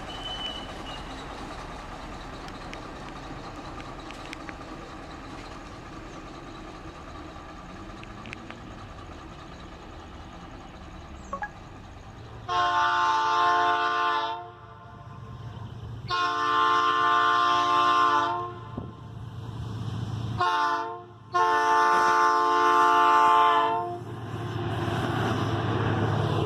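Diesel freight locomotive's multi-tone air horn sounding four blasts, long, long, short, long, over the low rumble of an approaching train. The locomotive's engine rumble grows louder near the end.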